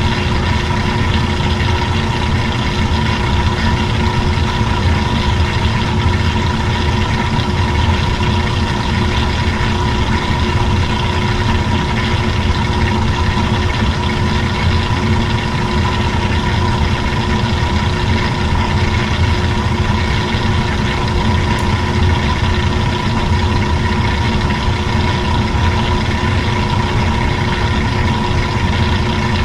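Old-style washing machine running, its motor giving a steady hum with a constant whine.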